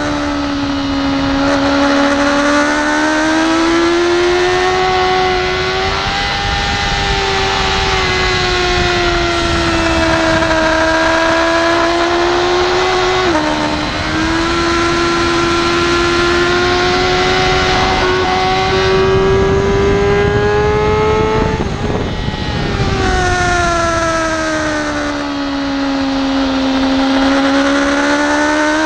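BMW S1000RR inline-four sportbike engine running under load on track, heard onboard. Its pitch rises and falls slowly with throttle through the corners, with a brief dip about halfway through, then a drop and a gradual climb again in the last quarter.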